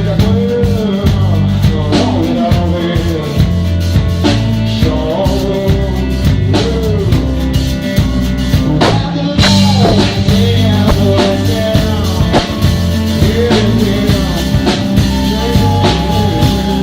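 Band playing rock music: a drum kit keeps a steady beat under a bass line and a melody that bends up and down in pitch.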